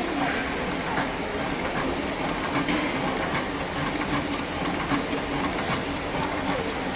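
Silicone tube cutting machine running, a steady mechanical hum with irregular sharp clicks as it feeds and cuts the tubing.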